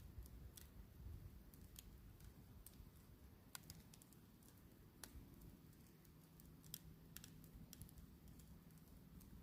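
Faint campfire crackling: irregular sharp pops and clicks from the burning wood, over a low steady rumble.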